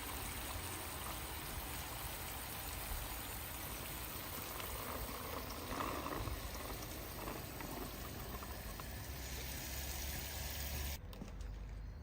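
Water running steadily, as in a toy car wash, cutting off suddenly near the end.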